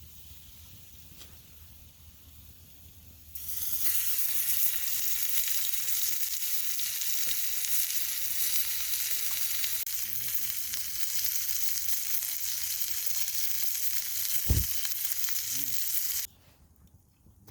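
Food sizzling in a hot pan: a dense, steady sizzle that starts suddenly about three seconds in and cuts off abruptly near the end, with one short low thump shortly before it stops.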